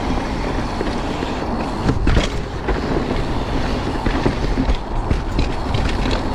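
Mountain bike riding fast down a dirt trail: a steady rumble of tyres on the ground with the bike rattling and clattering over roots and rocks.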